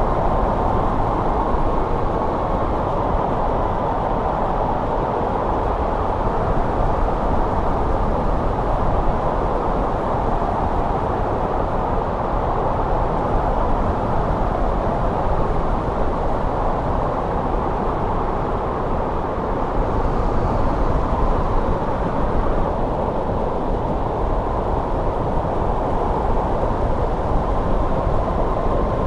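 Steady, loud wintry wind noise, a deep rushing rumble that swells and eases only slightly.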